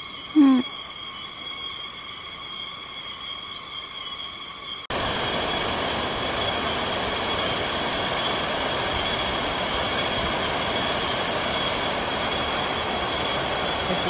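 Chorus of insects trilling steadily on several high pitches. About five seconds in it cuts abruptly to the steady rush of water pouring over a small erosion-control dam's waterfall, with the insects still trilling above it.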